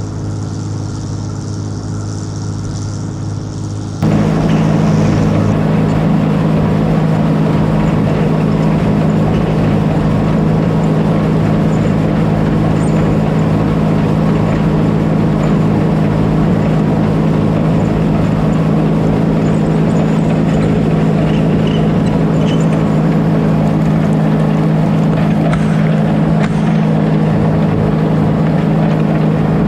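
Oliver 7300 combine running steadily. About four seconds in the sound abruptly gets louder and fuller, a strong steady hum over a dense mechanical rush, which then holds steady.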